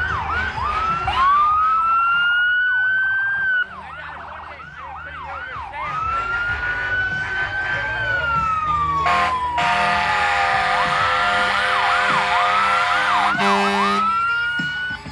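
Fire engine sirens wailing and yelping, several at once, one winding down in pitch about eight seconds in. Over it comes a loud steady blast lasting about four seconds, cutting off near the end.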